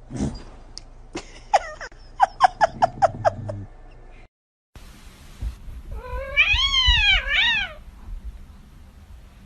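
Cat meowing: a quick run of short meows, several a second. After a cut, a cat gives one long meow that rises, wavers and falls.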